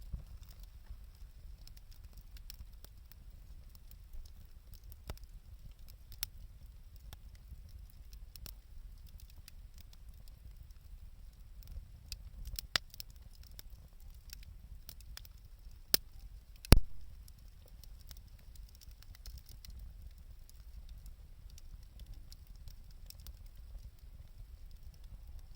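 Wood campfire burning lumber, crackling with scattered irregular pops over a low steady rumble; two sharp loud pops come about 16 and 17 seconds in.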